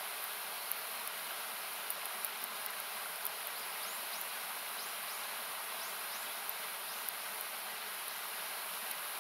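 Steady rushing noise of a river or waterfall, thinned by an equaliser so that it sounds hissy, with scattered faint pops of a wood campfire crackling.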